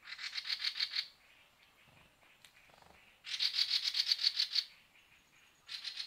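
A bird's rapid, dry rattling call, about a dozen notes a second, given three times: once at the start, a longer rattle a little past three seconds in, and a short one at the end.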